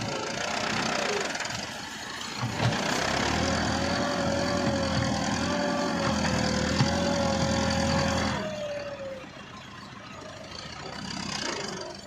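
Massey Ferguson tractor engine running, louder and working harder from about two and a half seconds in, then easing back near the end.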